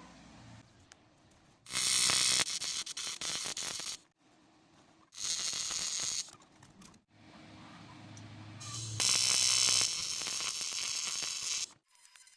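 AC TIG welding arc on aluminium, buzzing and hissing in three bursts: a short one about two seconds in, a shorter one near the middle, and a longer one near the end. Each starts and stops sharply as the arc is struck and broken off.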